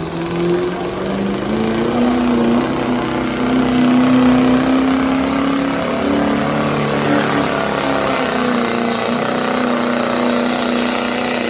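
2002 GMC pickup's Duramax turbo-diesel V8 pulling a sled at full throttle. Its pitch climbs over the first two seconds and then holds high and steady, with a high whine rising above it. The engine drops off suddenly at the very end as the pull finishes.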